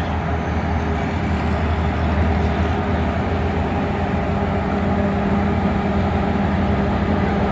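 Passenger train on the move, heard from aboard: a steady rolling rumble with a low, even hum running under it.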